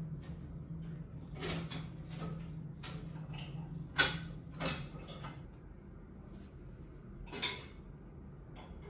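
Several short knocks and rustles, the loudest about four seconds in, over a steady low hum.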